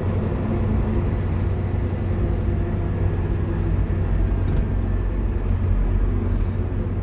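Scania K230UB Omnilink bus's five-cylinder diesel engine running steadily at an even note, with a faint click about halfway through.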